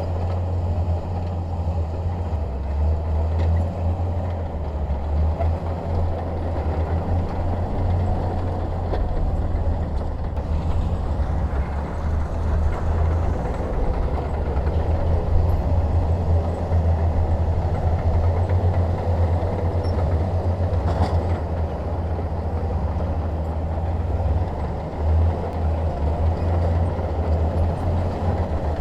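Bulldozer's diesel engine running steadily with a deep, even low rumble.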